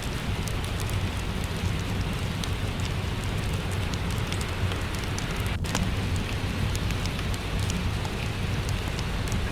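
Steady rain falling, mixed with a fireplace crackling in scattered sharp pops over a low rumble.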